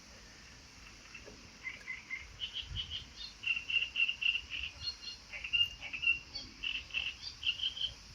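A small bird calling in a rapid run of short, high chirps, starting about a second and a half in and going on steadily, over a faint outdoor hiss.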